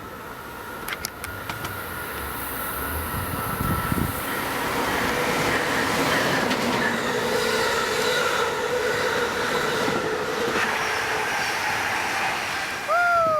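Amtrak Keystone passenger train passing through the station at speed, a rushing roar of wheels on rail that builds over the first few seconds and stays loud, with a steady high whine over it. A few sharp clicks come about a second in.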